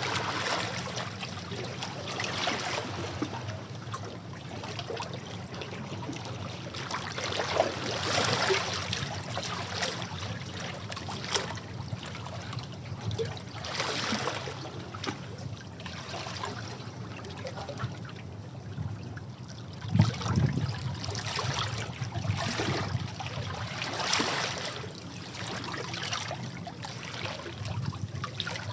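Sea waves washing in over rocks, each swell surging up and draining back every few seconds. About two-thirds of the way through comes the loudest, most sudden surge, a heavier slap of water.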